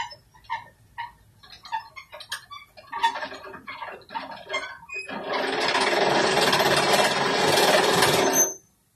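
A steam-hauled ballast train rattling along with regular clicking knocks that grow quicker, then a loud steady rushing noise about five seconds in that lasts some three seconds and cuts off suddenly.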